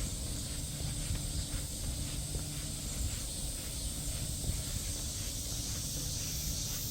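Footsteps of a person walking on a park trail, faint regular steps about twice a second, under a steady high-pitched hiss and a low rumble.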